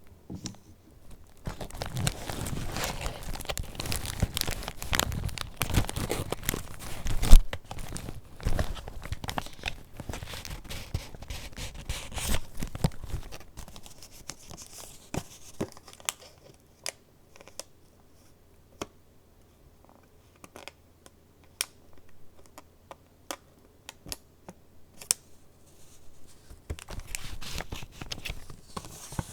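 Paper pages of a handmade junk journal being handled and turned, rustling and crinkling, with one loud knock about a quarter of the way in. Then comes a stretch of only scattered light taps and ticks before the rustling picks up again near the end.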